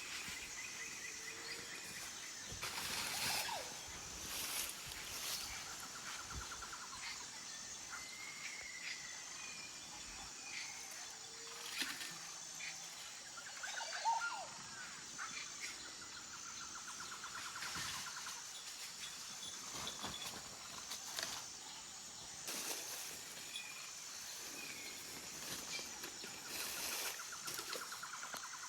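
Forest ambience: birds giving short trills and calls over a steady, high-pitched insect drone, with several brief rustling noises scattered through.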